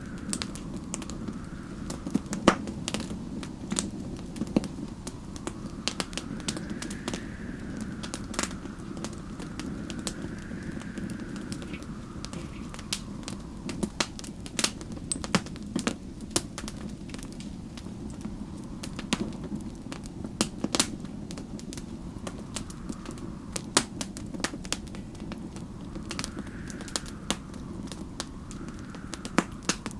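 Wood fire crackling with frequent irregular sharp pops over a steady low rumble, while snowstorm wind whistles faintly in slow rising and falling gusts.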